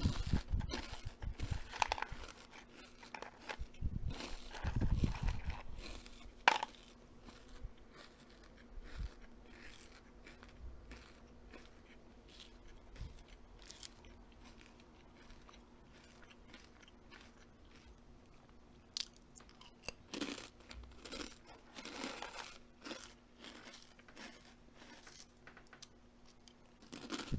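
Close-up chewing and crunching of food: crisp, crackly bites, loudest in the first several seconds and again about two-thirds of the way through, with quieter chewing between.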